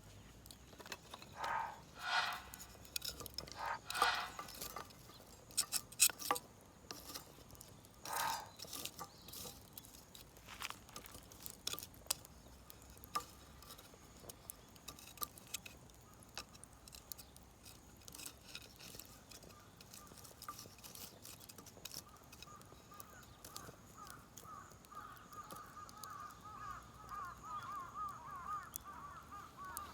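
Crows cawing, a few harsh calls in the first several seconds, over scattered light clicks. A wavering tone rises up in the last several seconds.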